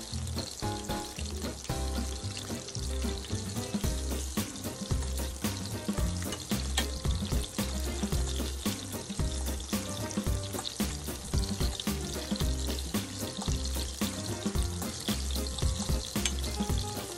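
Battered shrimp deep-frying in hot oil, a steady sizzle, with background music with a repeating bass beat underneath.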